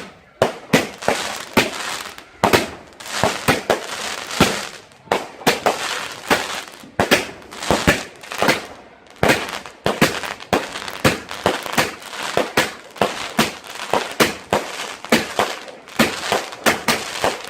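Fireworks going off in a rapid, continuous run of sharp bangs, two or three a second, with crackling between them.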